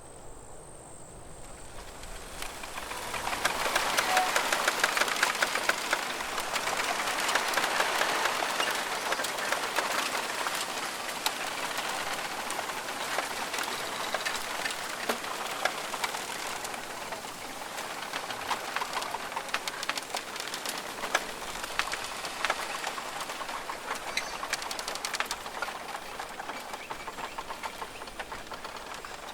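Wind gusting through forest trees, leaves rustling with many small crackles; it swells a couple of seconds in and slowly eases off. High insect trilling stops just at the start.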